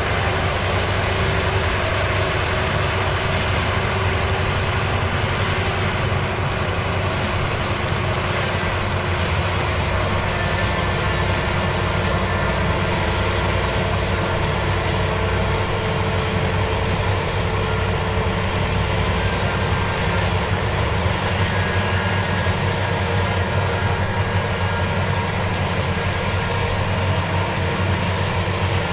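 Maxxi Bimo rice combine harvester's engine and machinery running steadily and loudly.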